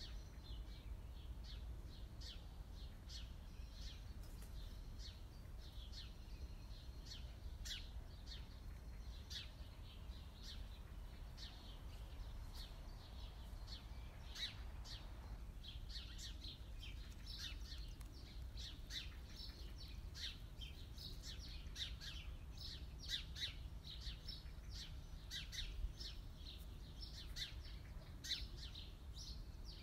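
Small birds chirping: many short, high chirps, coming thicker in the second half, over a faint, steady low rumble.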